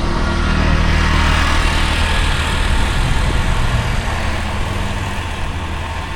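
Street traffic with a motor vehicle's engine running close by: a low, steady hum under a wash of road noise that swells over the first two seconds or so and then slowly fades.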